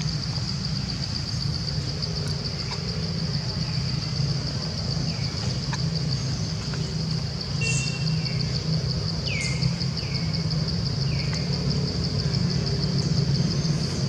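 A steady, high, pulsing insect chorus over a low steady rumble, with short falling chirps repeated here and there through it.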